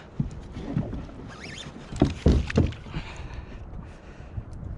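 Dull knocks and thumps on a Hobie fishing kayak as gear and body shift on the hull, with a cluster of loud ones about two seconds in.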